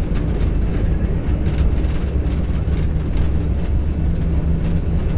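Airbus A320 heard from the cockpit during its high-speed takeoff roll: a loud, steady low rumble of the engines at takeoff thrust and the wheels running on the runway, with faint light knocks scattered through it.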